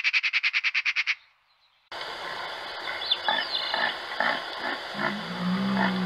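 A Eurasian magpie's fast chattering rattle for about a second, then a short silence. Then a red deer stag roars, one long low call starting about five seconds in, over a steady background with short calls.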